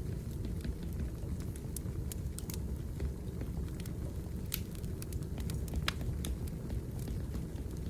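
Burning firewood crackling, with scattered sharp pops and snaps over a steady low rumble of the fire.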